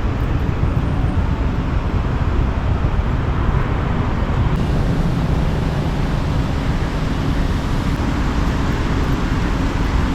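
Road traffic: a steady, loud rumble of vehicle engines and tyres.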